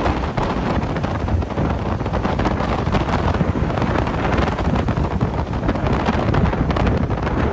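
Gale-force sea wind buffeting the microphone, a continuous loud rumble and rush, with waves breaking on the shore underneath.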